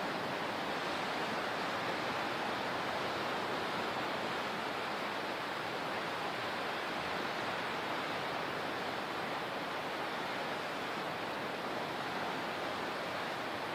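Steady, unbroken rushing of water, with no single splashes or surges standing out.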